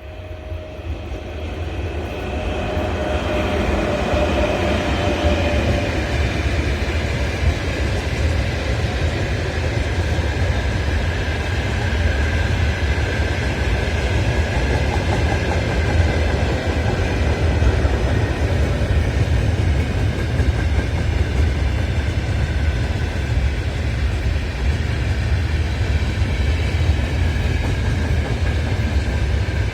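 Steady low rumble and running noise of a moving vehicle, fading in over the first couple of seconds, with faint high whining tones drifting above it.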